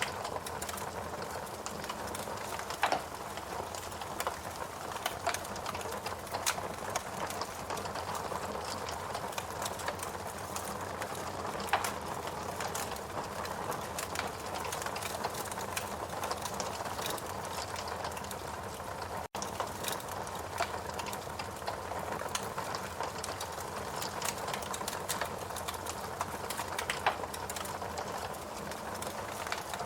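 Wood fire burning in a fireplace: steady crackling with frequent small snaps and three louder pops, and a split-second dropout about two-thirds of the way through.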